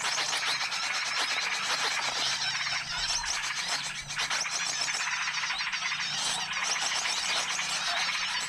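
A dense, unbroken chorus of many small birds chirping and twittering over one another. It is a bird-lure (pikat) call mix used to draw small wild birds in.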